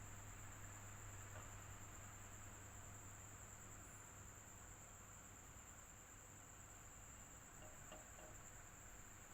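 Electric fan running steadily and quietly: a low hum under a soft airy hiss, with a constant high-pitched whine on top.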